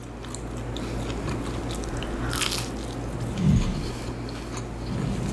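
Close-miked biting and chewing of a fried chicken strip, with one crisp crunch about two seconds in, over a steady low hum.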